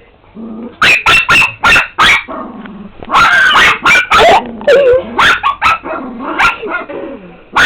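A pet dog barking loudly and repeatedly in quick runs of sharp barks, starting about a second in.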